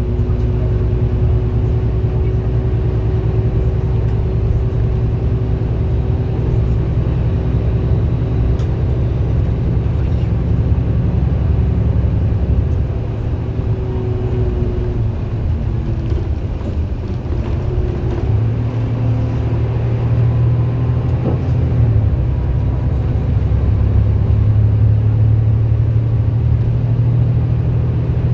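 MAN A91 bus engine running under way. It eases off for a few seconds about halfway through, then pulls harder again. A loud radiator sound runs over it.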